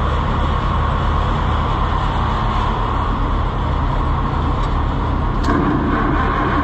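Old farm tractor engines running steadily with a low, even pulse. About five and a half seconds in a click is heard and a second, higher steady drone joins.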